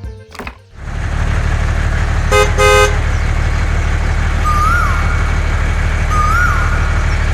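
A vehicle engine starts up about a second in and runs steadily. Two short horn toots sound about two seconds in. A short rising-and-falling chirp repeats three times over it.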